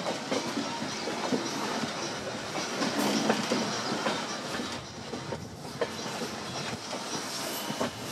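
Passenger train running along the track, a steady rumble of the coach with wheels clattering in irregular clicks and knocks over the rails. A few louder knocks come about three seconds in.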